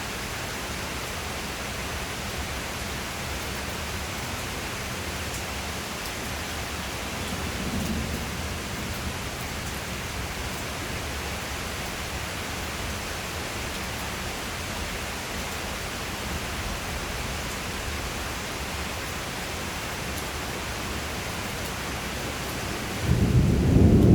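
Steady rain hissing without a break. About a second before the end, a loud, low crack of thunder breaks in and keeps rumbling.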